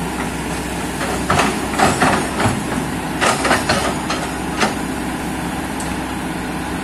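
Kobelco excavator's diesel engine running steadily, with a quick run of knocks and clatters between about one and five seconds in.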